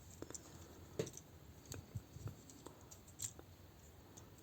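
Faint, irregular clicks and taps of hard plastic parts as a Newage Constructicon figure is handled and its joints and panels are moved during transformation, the sharpest clicks about a second in and just after three seconds.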